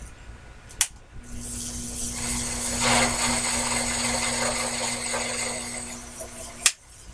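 Sherline mini lathe running with the cutting tool taking a light cut on a workpiece turned between centers: a steady motor hum with a hiss of cutting noise. A sharp click comes about a second in and another near the end, where the running sound stops.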